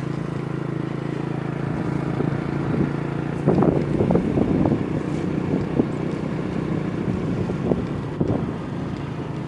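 Motorcycle engine running steadily while riding, with wind buffeting the microphone; the noise grows rougher and louder for a couple of seconds from about three and a half seconds in.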